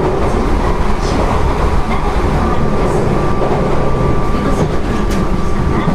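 JR 205 series electric train with field-added excitation control running along the track: a steady low rumble of wheels and running gear. A steady whine comes in about two and a half seconds in.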